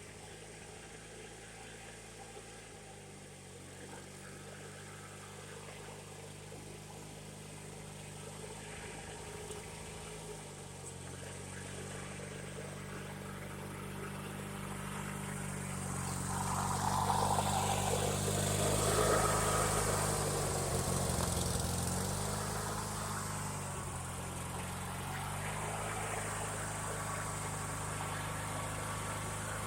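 Riding lawn mower's small engine running as the mower drives, its pitch shifting up and down several times. It grows steadily louder to a peak a little past halfway, then eases off somewhat.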